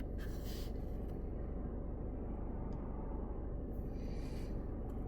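Steady low road rumble of a car driving on a highway, heard from inside the car, with two brief hissing rushes: one just after the start and one about four seconds in.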